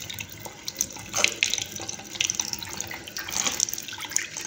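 Water running from a tap into a sink, splashing unevenly.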